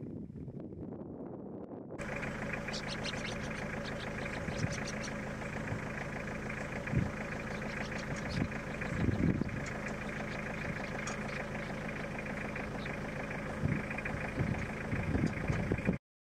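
Wind noise, then from about two seconds in a vehicle engine idling steadily, with short high ticks and a few soft low thumps over it; it cuts off abruptly just before the end.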